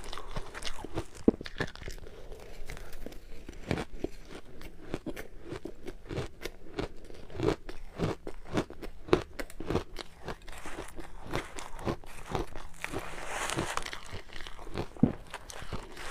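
Frozen ice being bitten and chewed close to the microphone: a long run of sharp, irregular crunches and cracks, quickening into a dense run midway, with a grinding crunch of crushed ice near the end.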